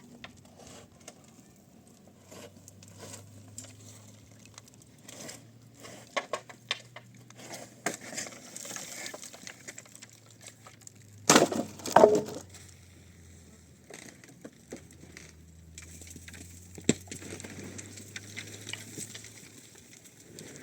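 Scattered light knocks, clatter and rustling of objects being handled, with a few louder knocks close together about eleven to twelve seconds in.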